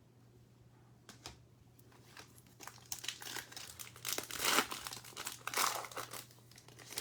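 Foil trading card pack wrapper crinkling and tearing as a pack is handled and opened. The crinkling comes in bursts from about three seconds in, loudest in the second half.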